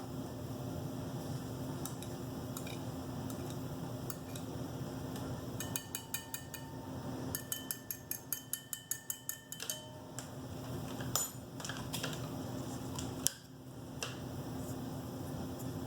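Spoon clinking against a cup while stirring, in quick runs of about five ringing strikes a second, then a couple of single knocks near the end, over a steady low hum.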